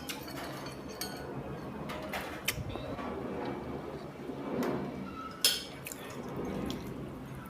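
Cutlery clinking and scraping against dishes during a meal, with sharper clinks about two and a half and five and a half seconds in.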